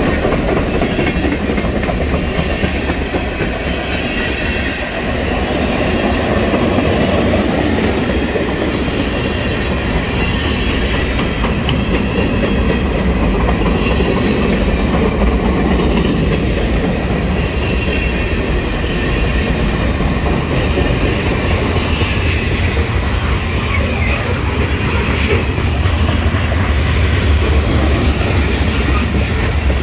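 Freight train cars rolling past at close range, their steel wheels running steadily on the rails.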